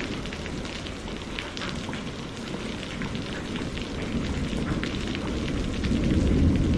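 Steady rain with a low rumble of thunder that swells toward the end, and scattered small crackles of a wood fire.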